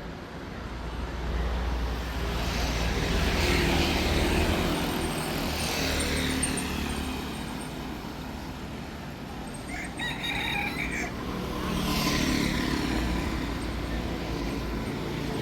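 Street traffic: vehicles passing one after another, each swelling and fading, over a steady low engine hum. A short high-pitched call or horn sounds about ten seconds in.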